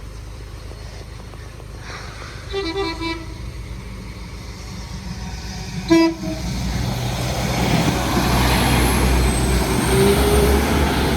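West Midlands Railway Class 196 diesel multiple unit sounding its horn: a short toot about two and a half seconds in and a sharp, louder toot at six seconds. The train's rumble then builds and stays loud as it runs past the crossing.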